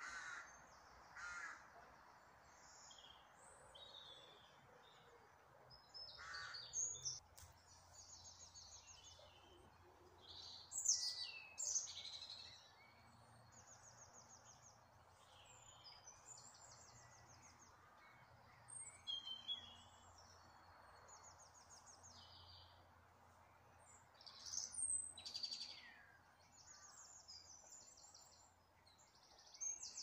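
Wild birds singing and calling: short high chirps, quick falling notes and fast rattling trills from several birds, coming and going, loudest about eleven seconds in.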